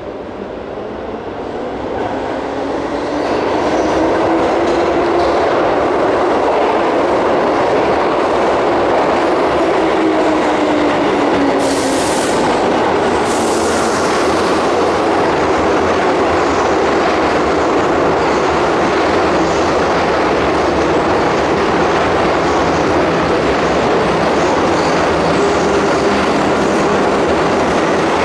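A Keihan Main Line electric train moving along the platform in an underground station, growing louder over the first few seconds and then running loud and steady with wheels clattering on the rails. A motor whine rises and falls, and two short hisses come about halfway through.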